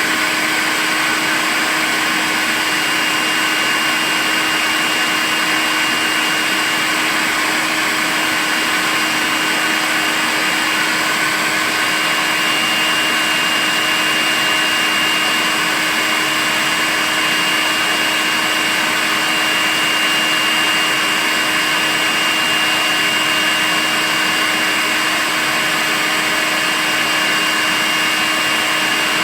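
Makita cordless vacuum cleaner running steadily: a continuous rush of air with a steady high whine from the motor and an even, unchanging level.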